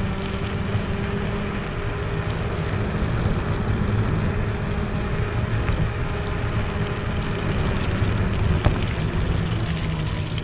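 Electric scooter riding over rough wet ground: a steady motor hum drifting slightly in pitch with speed, under the rumble of tyres and wind on the microphone.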